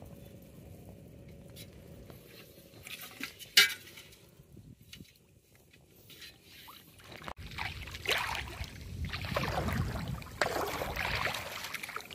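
Water splashing and sloshing, starting about halfway through and growing louder, with a single sharp knock about three and a half seconds in.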